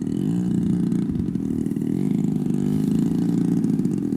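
Gas engine of a giant-scale RC warbird in flight, its pitch rising and falling as it passes and changes throttle. The engine is running rough, which the pilots take for a high-speed needle opened too far, making it run rich.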